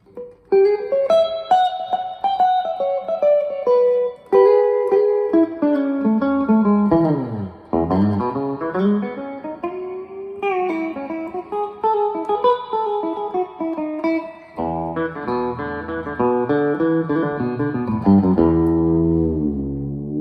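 Electric guitar played through an all-original 1970s Traynor YGM-4 25-watt amp with four 8-inch Marsland speakers. It opens with single-note melodic runs rising and falling, and about three-quarters of the way through changes to fuller, lower chords.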